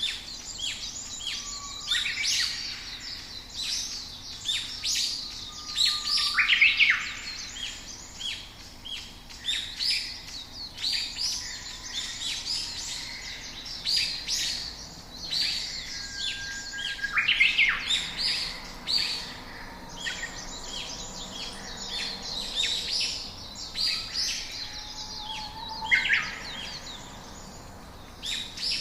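Several small birds chirping and calling at once, a dense run of short high chirps with a few louder calls that sweep downward in pitch, over a steady background hiss.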